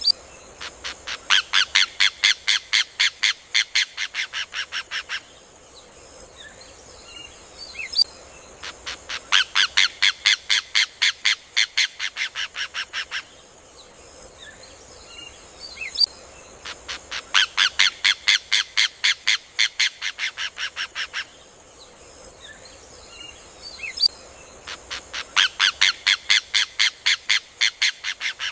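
Rufous hornero (João-de-barro) song: a rapid run of loud, sharp notes, about five a second for some four seconds, each run fading a little toward its end. The run comes four times at even eight-second spacing, each time led by a single sharp call, over a faint steady high hiss.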